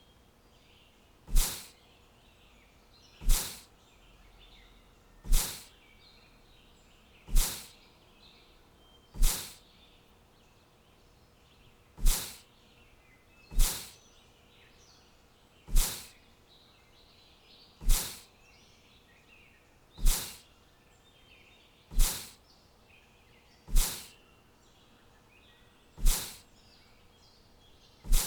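Faint high bird chirping, broken about every two seconds by a sharp, loud click-like sound that dies away quickly, fourteen of them in all.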